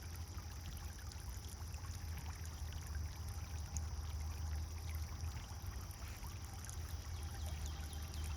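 Pond fountain water pouring and splashing steadily, with a low, even rumble underneath and many small droplet ticks.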